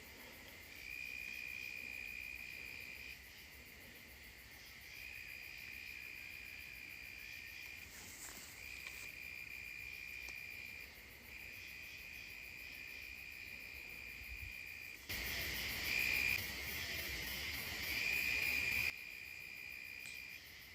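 Crickets trilling in a steady high-pitched drone, in long stretches of a few seconds broken by brief pauses. About fifteen seconds in, a louder hiss covers everything for about four seconds, then stops suddenly.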